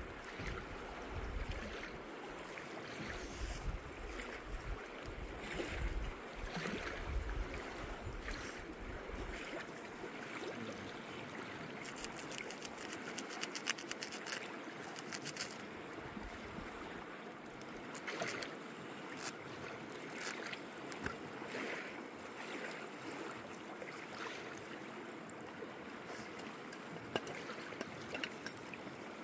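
River water running steadily, with wind buffeting the microphone for the first nine seconds or so and scattered small clicks and knocks throughout.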